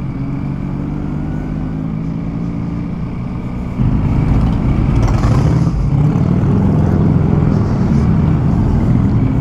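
Motorcycle engine running while riding, with a steady low note that gets suddenly louder about four seconds in and holds there.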